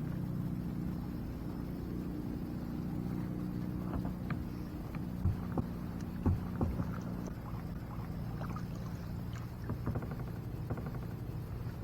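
Sounds of kayaking: scattered light knocks and clicks of the paddle and gear against the kayak, over a steady low hum.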